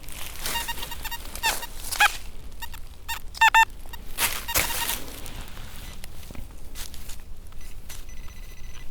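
XP Deus metal detector giving a run of short signal beeps as the coil sweeps over a target, some wavering in pitch, the loudest pair about three and a half seconds in, then a steady tone near the end.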